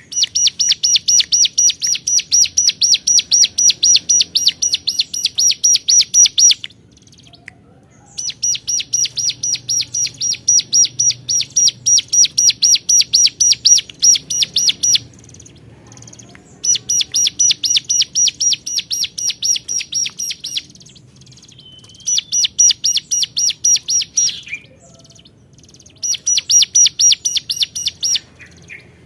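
Ciblek gunung (mountain prinia) singing in long runs of rapid, evenly repeated high chirps, about six a second. Each run lasts several seconds, with short pauses between, five runs in all: a bird in full song calling out at rivals.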